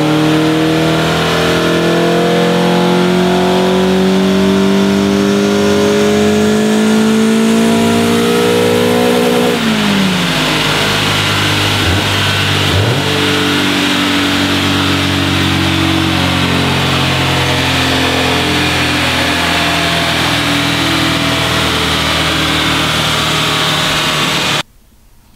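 Peugeot 206 engine on a chassis dyno, revving steadily higher under load for about nine seconds in a dyno pull, then dropping sharply as the throttle is released and running on at a lower, steady speed with tyre and roller noise. The sound cuts off suddenly near the end.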